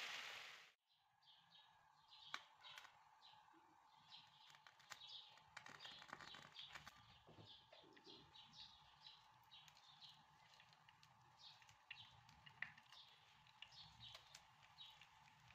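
Sizzling of frying masala in a pan, cut off abruptly under a second in. Then faint, repeated short chirps of small birds, with a few soft clicks.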